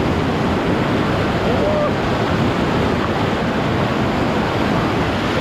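Whitewater of the Middle Ocoee River rushing around a raft: a steady, loud wash of water noise that does not let up.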